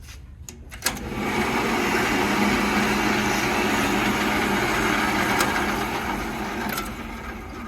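Drill press switched on with a click about a second in, its motor running steadily while drilling a shallow 1/4-inch hole in a wooden half circle, then winding down near the end.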